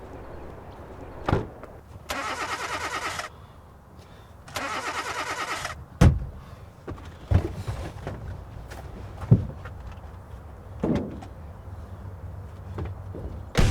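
A car's starter cranking the engine in two bursts of about a second each, with a fast pulsing whir, without the engine catching: a car that won't start. Several sharp thumps follow.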